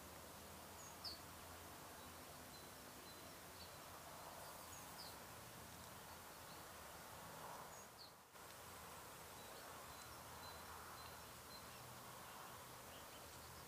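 Faint outdoor ambience: a steady low hiss with a few brief, high bird chirps from far off every few seconds, and a thin high tone coming and going through the middle.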